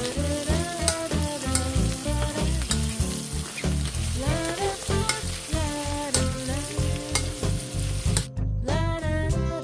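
Food sizzling in a hot pan, a steady hiss that cuts off about eight seconds in, over background music.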